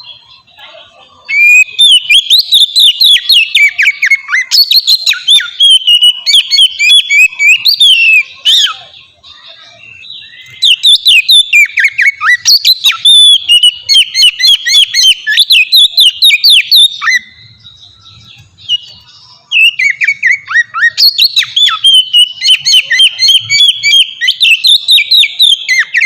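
Oriental magpie-robin (kacer) singing loudly in its open, full-voiced 'ngeplong' style: three long bouts of fast, varied whistled phrases with short pauses between them.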